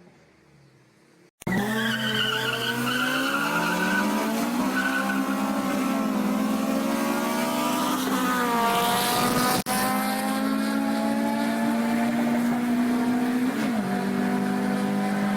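Honda K20 inline-four engine at high revs, cutting in suddenly about a second and a half in; its pitch climbs and falls, then is held steady for several seconds.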